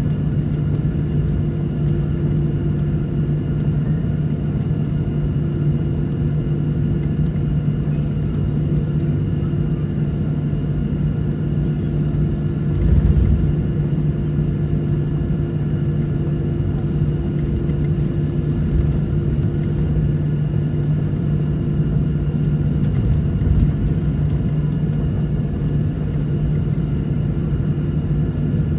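Steady drone of an airliner's engines and rushing air heard from inside the passenger cabin, with a constant low hum; a brief low thump comes about halfway through.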